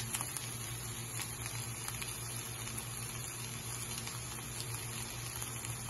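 Cooked chicken pieces sizzling gently in a pan on low heat, a steady soft frying noise with faint scattered crackles, over a low steady hum.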